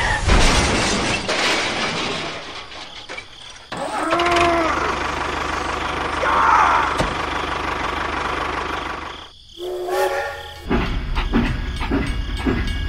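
Vehicle engine sound, with a short steady pitched tone about ten seconds in, after which an even rhythm of about three knocks a second sets in.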